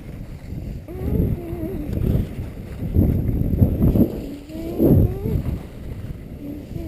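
Skis sliding and scraping over snow in uneven surges, with wind rushing over the microphone.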